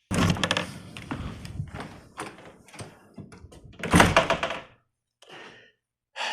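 A door being opened and someone coming in, with rustling and clicks for the first couple of seconds, then a solid thud about four seconds in, as of the door shutting.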